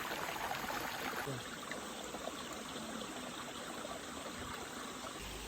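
Mountain stream water running and trickling over rocks, a steady rushing that drops a little in level about a second in.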